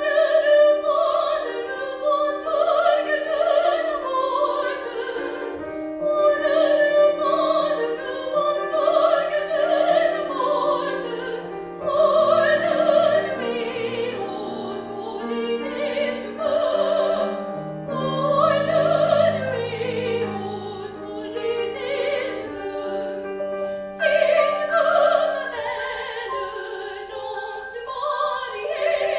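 Classical, operatic-style solo singing with a wide vibrato, accompanied by piano.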